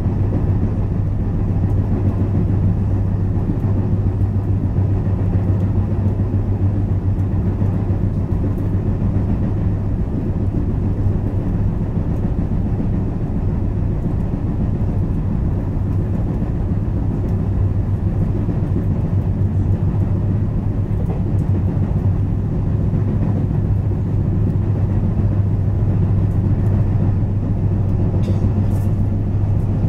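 Interior running noise of a JR West 223 series electric train at speed, heard from the motor car: a steady rumble of wheels on rail over a constant low hum. A flat spot worn on one of its wheels adds a fast, repeated knocking with each wheel turn.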